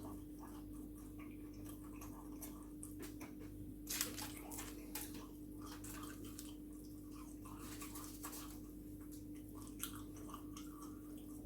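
A person chewing food quietly, with a few faint short clicks from the mouth and food, over a steady low hum.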